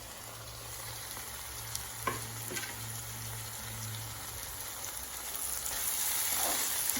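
Onions sizzling in hot oil in a pan, with a few light clicks of a spoon stirring against the pan. The sizzle grows louder about five and a half seconds in.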